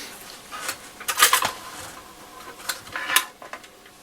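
Clicks and light clattering of a Roberts R707 transistor radio's chassis and case being handled and unclipped as the chassis is worked loose from the case. The noises come in two short clusters, about a second in and again near three seconds.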